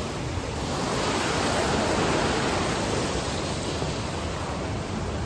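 Rushing river water, a steady loud rush of rapids or falling water.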